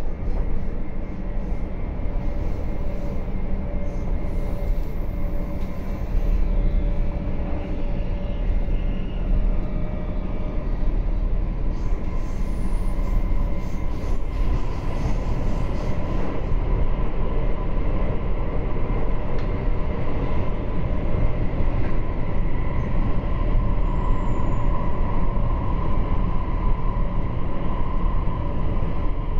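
Running noise of a RABe 526 electric multiple unit under way, heard from inside the passenger cabin: a steady rumble of wheels on the rails, with a steady electric whine that grows stronger about halfway through.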